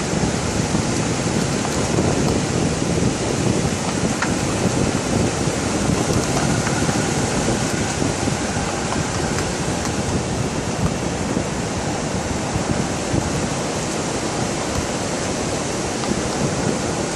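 Ocean surf with wind buffeting the microphone: a steady rushing noise, gusting unevenly in the low end.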